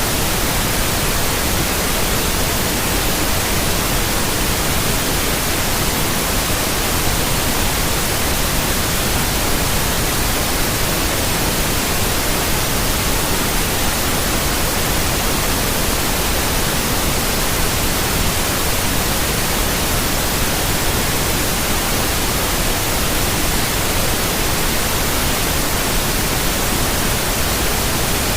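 Steady white noise: an even, unchanging hiss across all pitches, with no breaks or variation.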